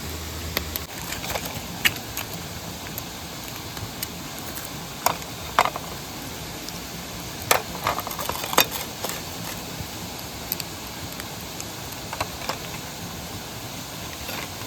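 Steady rushing hiss of a mountain stream, with scattered sharp clicks and knocks, the loudest a few around five and eight seconds in. A low hum cuts off under a second in.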